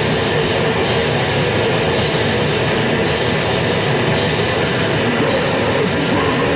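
Lo-fi demo recording of heavily distorted band music: a dense, unbroken wall of guitar noise with no clear vocals.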